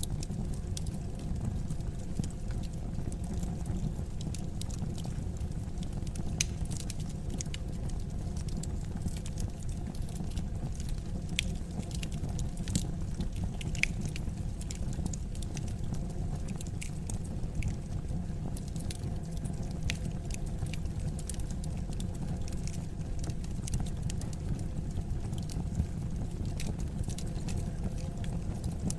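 Wood fire burning in a fireplace: a steady low rumble of the flames with irregular sharp crackles and pops of burning logs.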